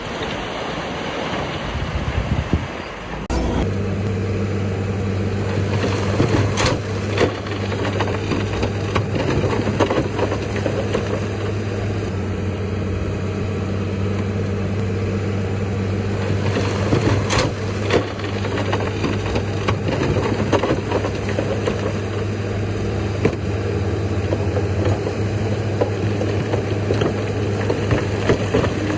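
Heavy earthmoving machine's diesel engine running steadily, coming in strongly about three seconds in, with a few sharp knocks over it.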